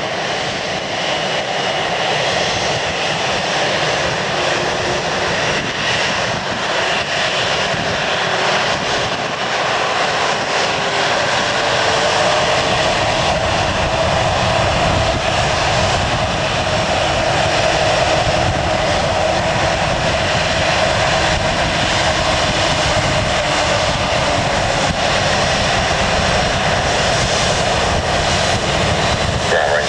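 Jet airliner's engines running at takeoff thrust as it rolls and departs, a steady roar growing gradually louder.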